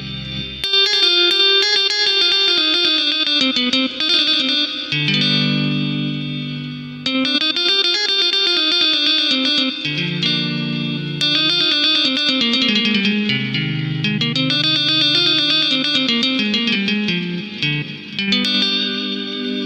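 Korg Pa700 arranger keyboard playing a melody in a plucked-string, guitar-like voice with effects. The melody bends up and down between notes over held low chords that change every few seconds.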